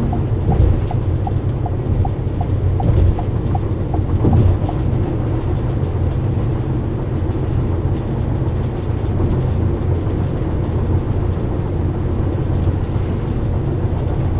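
Steady low road and engine rumble inside a car at highway speed. For the first four seconds or so a turn-signal indicator ticks about three times a second, then stops as the lane change is done.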